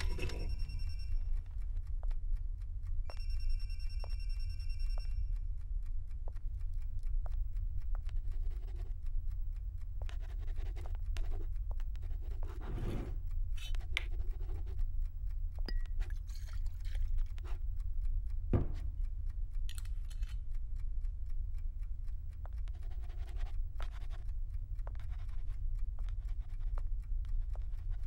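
A faint clock ticking about once a second over a steady low hum, with short scratching noises now and then. Two held high tones sound in the first few seconds.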